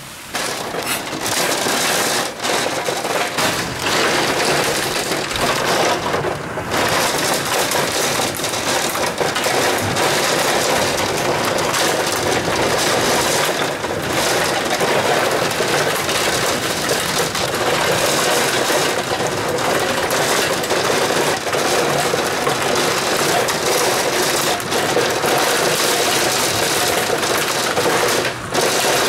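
Heavy rain pelting down hard on a surface: a dense, steady clatter of drops that cuts in abruptly at the start.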